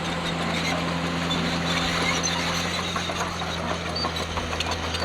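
Komatsu D51PX bulldozer's diesel engine running steadily, with scattered clicks and rattles from about the middle on.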